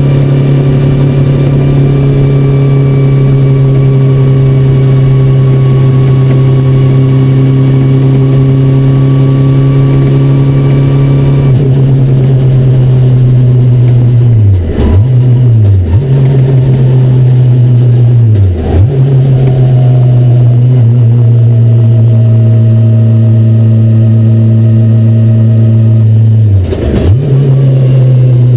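Swapped-in Honda CBR954RR inline-four motorcycle engine pulling a Subaru 360 microcar at a steady cruise, heard from inside the cabin. Its revs dip sharply and pick back up several times as the driver works the gear lever: twice about halfway through, once a few seconds later, and again near the end.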